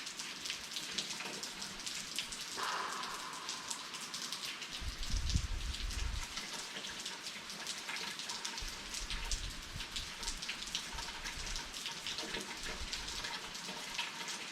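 Steady rain falling, with many separate drop hits pattering on surfaces. A low rumble of thunder comes in about five seconds in and rolls on again a few seconds later.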